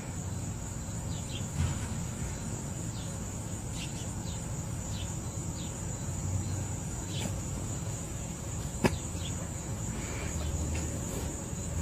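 Insects trilling steadily at a high pitch, with a few faint short chirps and one sharp click about nine seconds in.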